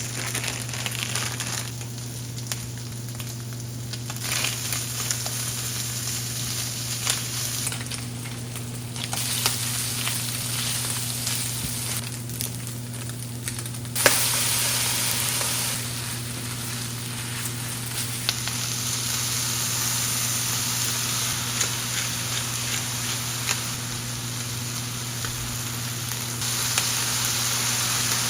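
Stir-fry noodles sizzling in a frying pan, with the small knocks and scrapes of stirring now and then. The sizzle suddenly gets louder about halfway through.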